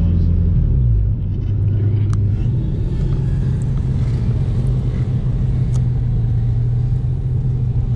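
Vortech-supercharged Nissan 350Z's VQ V6 engine running at low revs, heard from inside the cabin as the car rolls slowly. Its pitch drops about a second in, then holds steady as a low rumble.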